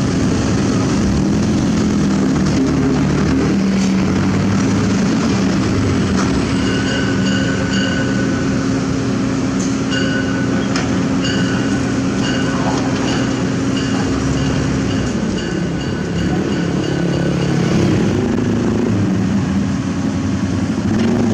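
Diesel engine of heavy construction machinery running steadily, with a machine's warning beeper sounding a run of short, evenly pitched beeps through the middle stretch. The engine's pitch drops for a moment near the end, then picks up again.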